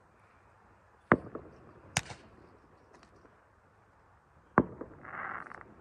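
Distant firework bangs: three sharp reports, each trailed by a few weaker echoes, followed near the end by a short hiss.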